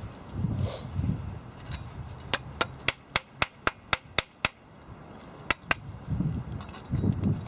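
A run of about ten sharp, quick taps, roughly four a second, then two more taps about a second later, with low rumbling handling noise before and after.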